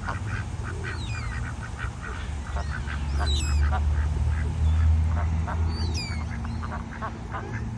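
A flock of ducks calling: many short quacks in quick succession, with a few high descending whistled calls. A steady low rumble runs underneath.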